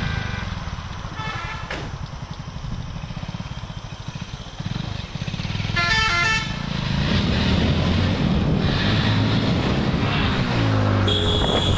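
Motorcycle engine running with a steady low pulsing while riding, its pitch rising and falling near the end. A vehicle horn sounds briefly about a second in and again, louder, about six seconds in.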